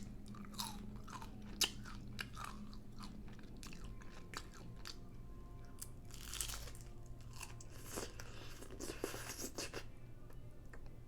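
Close-miked chewing of a chorizo taco boat: irregular wet smacks and sharp clicks of biting and chewing, over a faint steady low hum.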